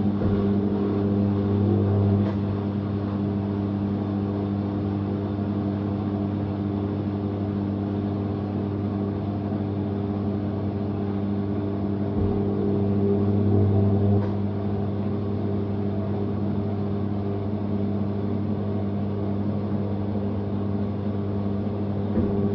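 Living & Co 5.5 kg top-loading washing machine's motor running steadily with an even hum that swells slightly a couple of times.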